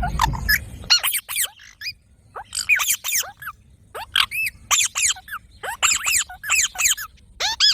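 Green parrots screeching in clusters of short, harsh calls that fall in pitch, repeating about once a second. A low rumble fills the first second.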